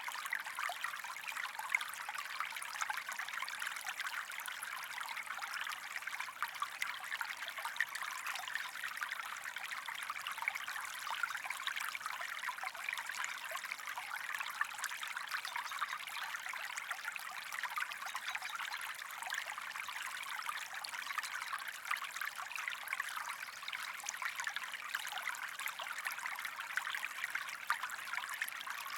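Water trickling and splashing in a small stream, a steady, even babble.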